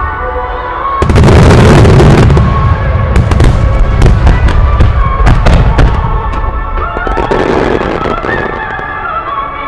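Aerial fireworks shells bursting in a rapid barrage: a loud cluster of booms about a second in, then many sharp cracks in quick succession. Music plays through loudspeakers underneath.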